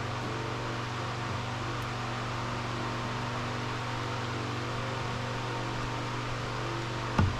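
Steady low mechanical hum with a hiss, with no tapping or knocking. Rhythmic music with beats comes in right at the end.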